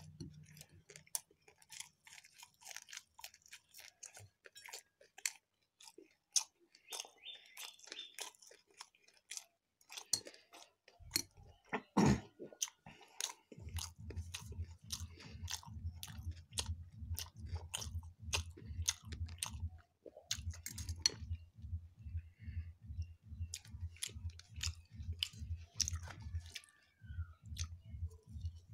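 Close-miked chewing and crunching of fried mughlai paratha, with sharp clicks of a fork on a ceramic plate. From about halfway it turns into steady, rhythmic chewing, about three chews a second.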